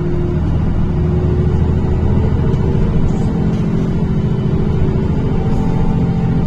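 NefAZ-5299 city bus driving, heard from inside the passenger cabin: a steady engine and drivetrain hum over road rumble. Its pitch shifts a little about half a second in and rises slightly near the end.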